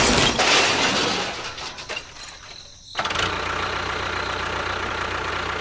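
A loud clattering noise fades away over about two seconds. Then a motor starts abruptly about three seconds in and runs steadily.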